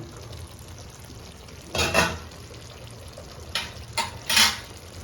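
A cooking pan's lid lifted off and a spoon stirring the chicken in the pan: one short clatter about two seconds in, then a few quick clicks and scrapes near the end, over a low steady background.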